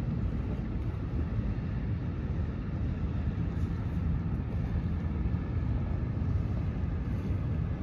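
Steady low rumbling outdoor beach ambience with no distinct events: wind on the microphone and surf blending into one even roar.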